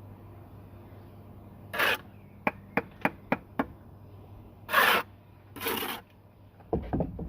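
Bricklayer's steel trowel scraping wet mortar, with a quick run of about five sharp taps in the middle as a brick is tapped down into its bed, over a steady low hum.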